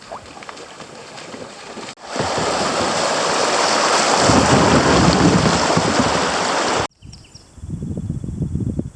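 Creek water rushing, a steady loud hiss that starts and stops abruptly at clip cuts about two and seven seconds in; after the second cut, a lower gusty rumble of wind on the microphone.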